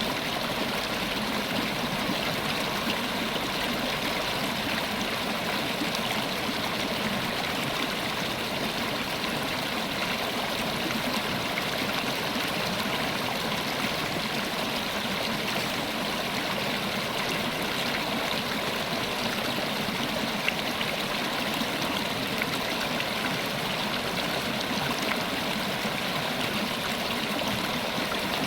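River water flowing steadily over stones, a continuous rushing with a light gurgle.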